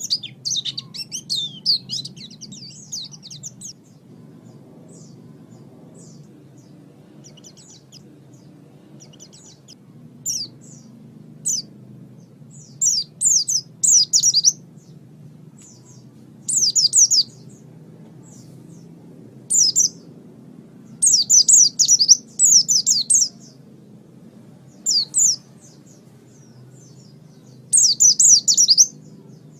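White-eye (pleci) singing rapid, high twittering phrases. A continuous run opens the song, then short bursts follow every couple of seconds, over a faint steady low hum.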